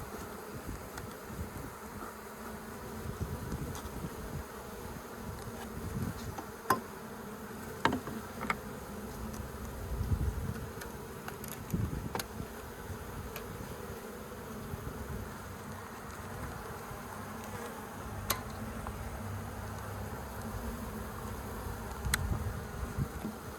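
A honeybee colony buzzing steadily around the opened nest as the comb is handled, with a few short sharp clicks and taps scattered through.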